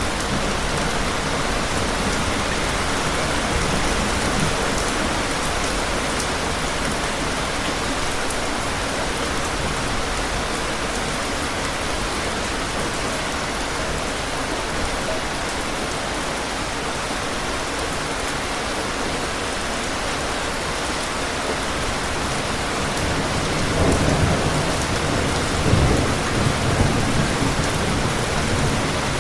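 Steady, heavy rain falling, with low rolls of thunder rumbling in about three-quarters of the way through.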